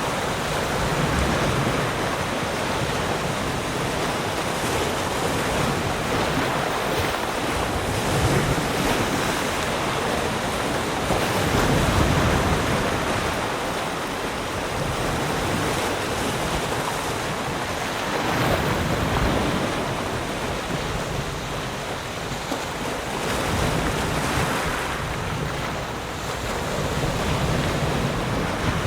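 Ocean surf washing onto a shore: a continuous rush of water that swells and eases every few seconds as waves break.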